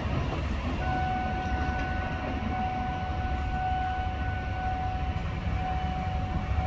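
Low, steady rumble of a container freight train running along the line. About a second in, a steady high tone comes in and holds.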